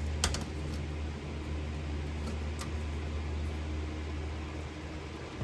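Steady low machine hum, like a fan or motor running, with a couple of sharp clicks just after the start.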